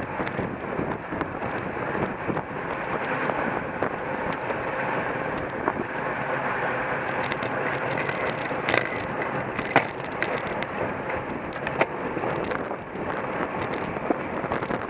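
Wind rushing over a bike-mounted microphone with the tyre and road noise of a racing bicycle at speed, broken by scattered sharp clicks and knocks from the bike, the loudest about two-thirds of the way in.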